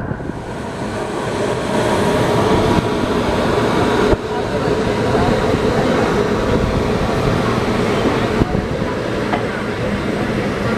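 Passenger train's LHB coaches rolling on the rails, a steady loud rumble with a sharp knock about four seconds in and another near the end.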